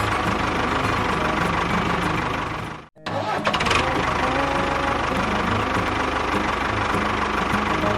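Small engine running steadily with a rapid pulsing beat, cut off abruptly for a moment about three seconds in, then running on.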